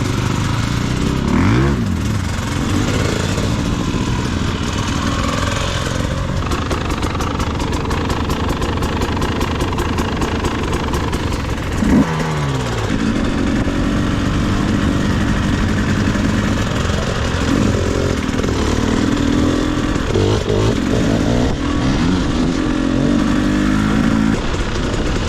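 Two-stroke enduro dirt bike engine, a Husqvarna TE300i, running off-road with the throttle rising and falling again and again. There is a sharp blip of revs about 12 seconds in, over a steady hiss of wind and terrain noise.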